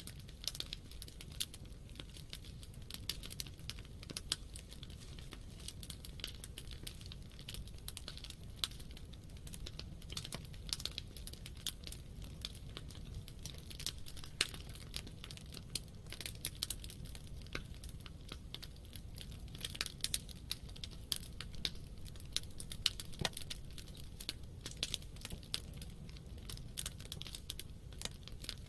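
Wood fire burning: irregular sharp crackles and pops from the burning logs over a low steady rumble of the flames.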